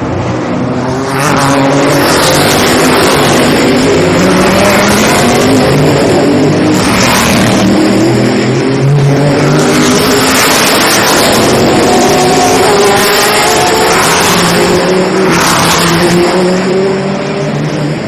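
Sports racing cars going by at speed, several engines at once, their pitch gliding up and down as they pass. The loudest passes come about seven and fifteen seconds in.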